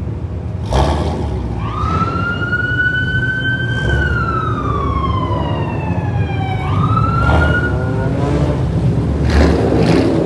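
Police car siren wailing: the tone climbs, falls slowly over a few seconds, climbs again about seven seconds in and then fades. Under it, car engines rumble steadily, with a few short loud bursts.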